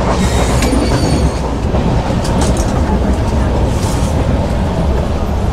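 Steady low rumble of a moving passenger train heard from inside the coach, with scattered clicks and rattles from the wheels and carriage, and a brief high squeal about a second in.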